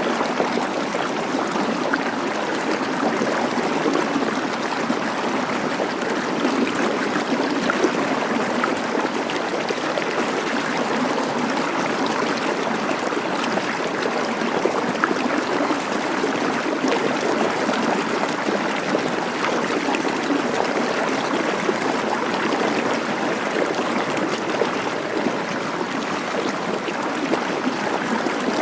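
Rushing water, a steady and unbroken rush.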